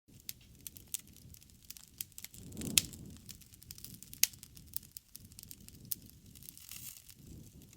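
Wood fire crackling, with many small pops and snaps over a low rustle of flame. There are two loud sharp pops, one a little under 3 seconds in and one a little over 4 seconds in.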